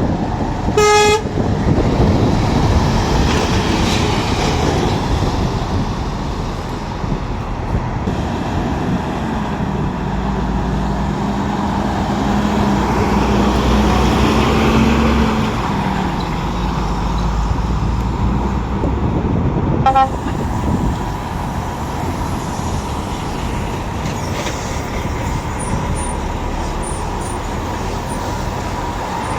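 Heavy lorry traffic with diesel engines running, a short horn toot about a second in and another brief toot about twenty seconds in. Between the toots, one engine's hum rises slightly in pitch, then fades.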